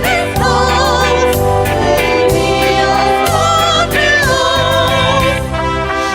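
Choir or vocal ensemble singing, the voices wavering with vibrato, over an instrumental accompaniment with sustained bass notes that change about once a second.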